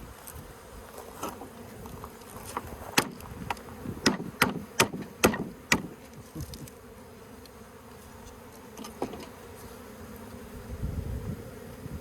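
Honeybee colony buzzing steadily around the birdhouse it nests in. Midway there is a quick run of about six sharp knocks, with one more later.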